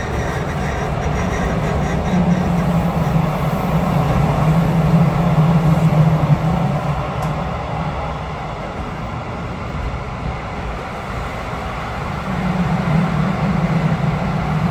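Passenger train running on the rails: a steady rolling rumble with a low drone that swells for a few seconds, eases off, and comes back near the end.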